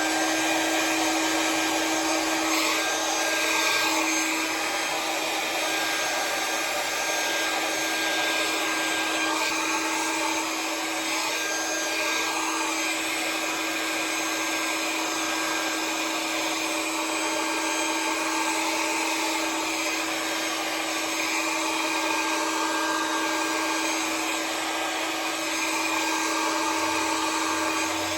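Conair hair dryer with a nozzle attachment running steadily on heat, a constant motor whine under the rush of blown air, used with a round brush to dry a section of hair.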